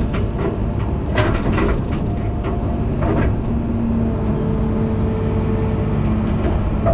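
Tractor engine running steadily under load while pulling a straw baler, with irregular clanks and rattles from the baler's machinery.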